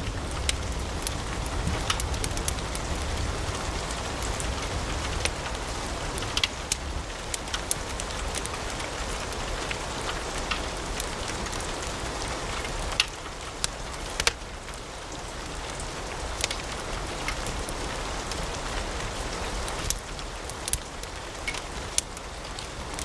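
Wood fire crackling in a fireplace: a steady hiss with scattered sharp pops and snaps, a few of them louder, and a low rumble that fades away over the first few seconds.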